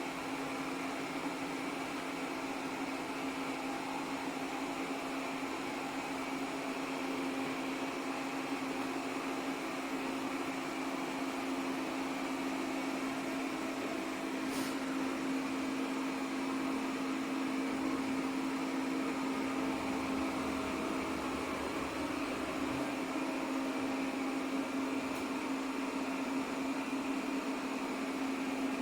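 Airzeen R7 robot vacuum running: a steady motor and suction-fan hum, with a single click about halfway through.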